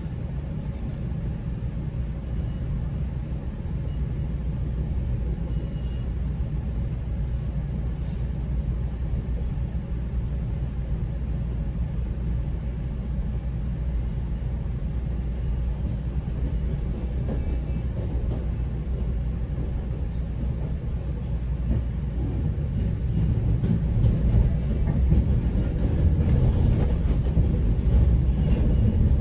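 GO Transit commuter train running on the rails, a steady low rumble of wheels and track. From about 22 seconds in it grows louder and rougher, with faint clacks mixed in.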